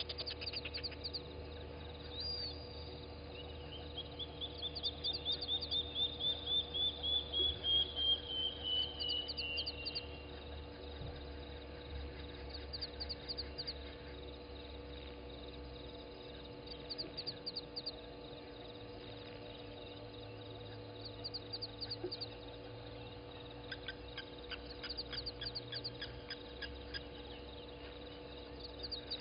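Birds calling at dawn: one long series of rapid high notes that rises, then slowly falls in pitch over several seconds, with short high chirps repeating throughout. A faint steady electrical hum underlies it.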